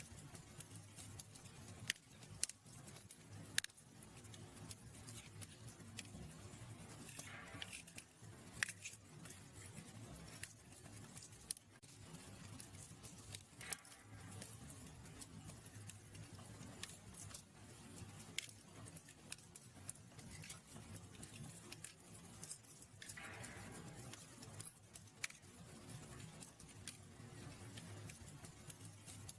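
Fire crackling in a fireplace: irregular sharp pops over a low steady rumble, with a short hiss twice.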